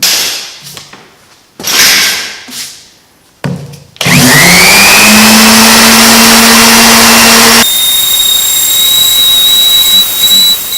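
Electric random orbital sander switched on about four seconds in, spinning up with a rising whine and then running steadily; about halfway through its sound changes, the low hum giving way to a high thin whistle, as it sands rust off a cast iron table saw top. A few short noisy sounds come before it starts.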